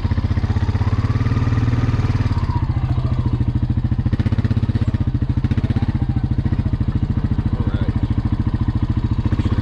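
A combustion engine running steadily with a fast, even pulse. A higher tone rises and falls over its first couple of seconds.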